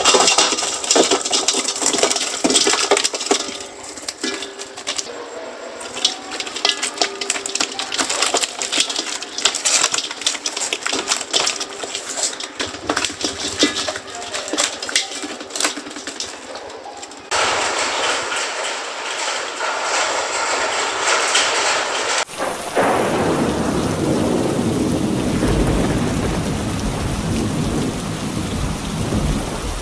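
Rain falling. For about the first 17 seconds it is a dense patter of drops, then it turns abruptly into an even hiss. About 22 seconds in it changes again to heavier rain with a low rumble underneath.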